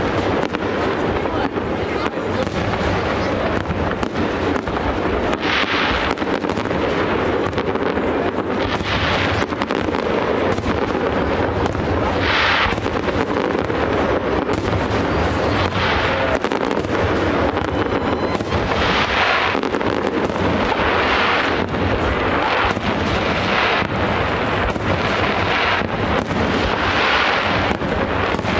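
Large aerial fireworks display: a dense, continuous barrage of shell bursts and crackling, with short hissing rushes every few seconds.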